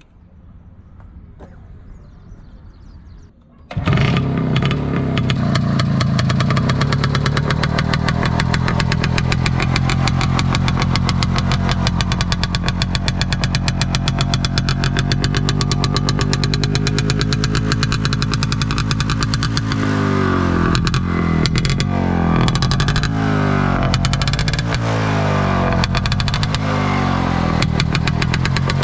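1974 IZH Planet 3's single-cylinder two-stroke engine catching about four seconds in and running with a rapid, even beat, then revved up and let back down several times in the second half before settling back to a steady run.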